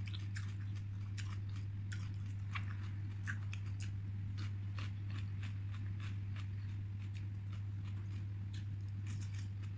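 Close-up mouth sounds of chewing and biting boiled leafy greens: many small wet clicks and crunches. A steady low hum runs underneath.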